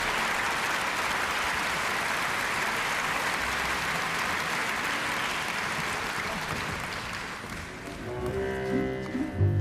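Audience applause that fades away, followed about eight seconds in by the instrumental introduction of a song starting up.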